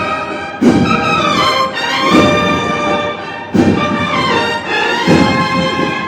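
Spanish Holy Week processional band playing live. Brass carry the melody in long held notes over a drum beat that lands about every second and a half.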